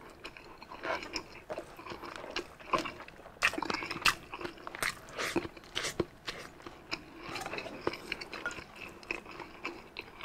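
A person chewing and biting pork sisig and rice in their mouth, with irregular wet smacks and crunchy clicks.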